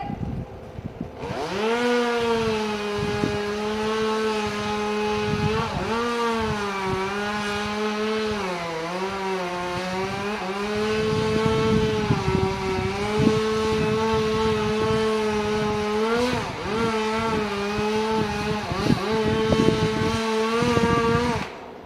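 Chainsaw running at high revs, starting about a second in. Its pitch sags briefly a few times as it loads in the cut, and it stops suddenly near the end.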